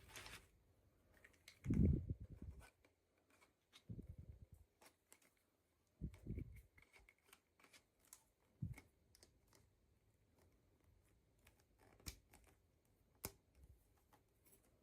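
Quiet handling noises from unboxing small toys: scattered light clicks and taps of small plastic parts and packaging, with a few soft, low thuds spread through.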